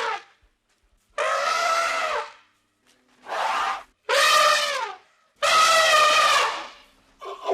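An animal giving a series of loud, harsh, trumpet-like calls, each about a second long and dropping in pitch at the end, with short pauses between them.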